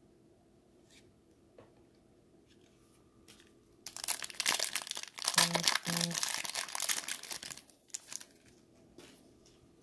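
Trading card pack wrapper being crinkled and torn open, a dense burst of crinkling starting about four seconds in and lasting nearly four seconds, with a few faint clicks of card handling around it.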